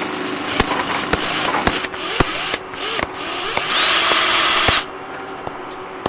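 Power tool running, with a series of sharp knocks about every half second and a louder burst of hiss lasting about a second near the middle.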